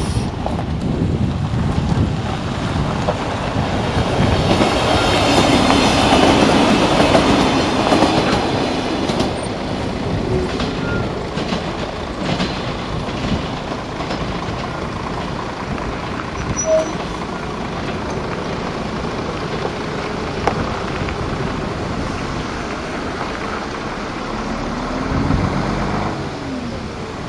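A Siemens Desiro diesel multiple unit passing: its engine and its wheels on the rails swell to their loudest about five to eight seconds in, then fade steadily as it moves away.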